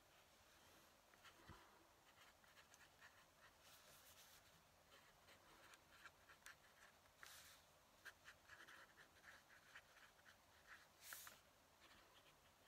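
Faint fountain-pen nib scratching on paper in short strokes and ticks, with a few brief louder swishes.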